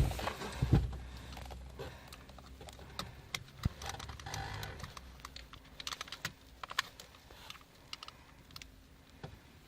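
A couple of knocks in the first second, then irregular light clicks and taps of small hard parts being handled, fading gradually.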